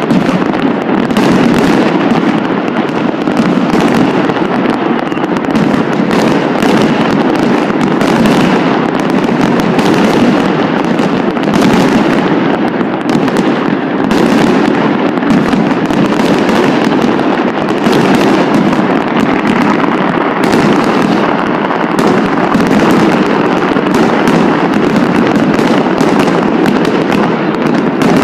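Fireworks going off without a break: a dense, steady crackle of many overlapping bursts, with no pause.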